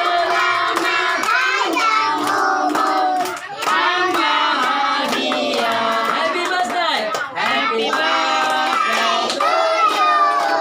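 A group of children singing a birthday song together, with hands clapping along in time.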